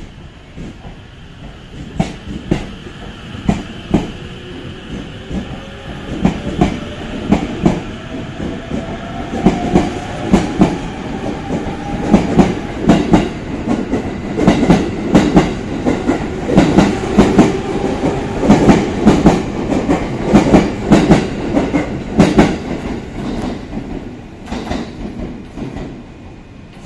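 E257-series electric train pulling out and passing close by, gathering speed: its wheels click over the rail joints faster and faster, and a faint whine rises in pitch as it accelerates. The sound fades near the end as the train draws away.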